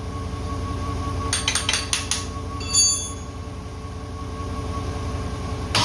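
Light metallic clicks and one short, high ringing clink from hand work on top of a rebuilt Holden 253 V8, over a steady low hum. Right at the end the engine fires and starts running, much louder.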